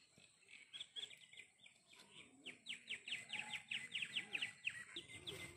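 A bird chirping in a rapid series of short, falling chirps, several a second, starting about half a second in and loudest in the middle.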